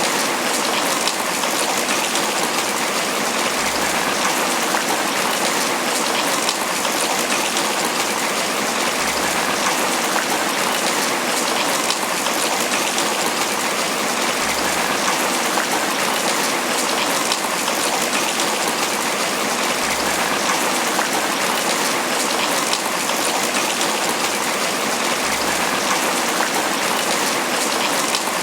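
Tropical rain falling steadily on banana leaves, a dense, even patter of countless drops.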